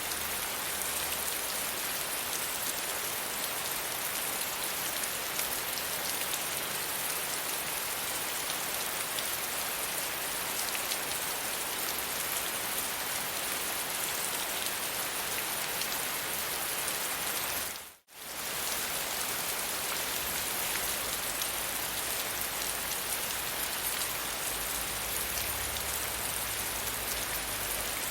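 Steady rain falling, an even hiss with no other sound. About two-thirds of the way through it fades out to silence for a moment and comes straight back in.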